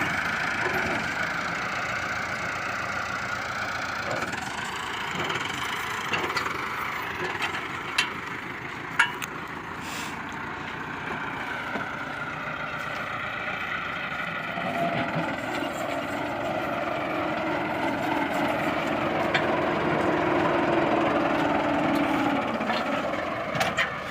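Heavy machine engine running under varying load, its pitch rising and falling. Two sharp knocks stand out about eight and nine seconds in.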